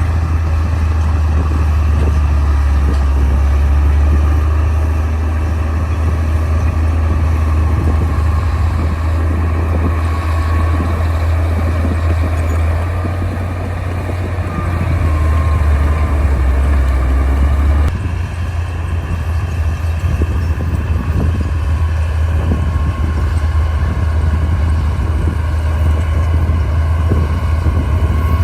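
Crawler bulldozer's diesel engine running hard under load with a steady low drone. The engine note changes abruptly about 18 seconds in.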